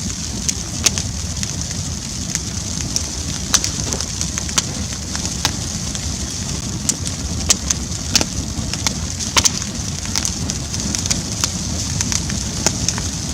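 Campfire burning: a steady low rumble under irregular sharp crackles and pops.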